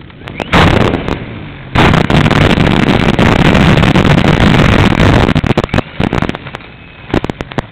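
Propeller plane engine running, heard through a small camera's microphone that is swamped by wind buffeting and crackling distortion. The roar eases off about six seconds in, leaving scattered clicks and pops.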